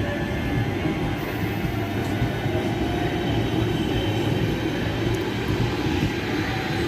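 Train running through a station, a steady loud rumble of engine and wheels on the rails.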